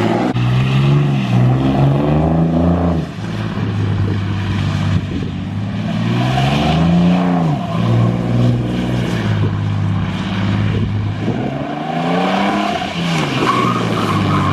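Pickup truck engine revving hard in three rising and falling surges during a burnout, held at a steady drone between them, with the rear tires spinning and squealing against the pavement.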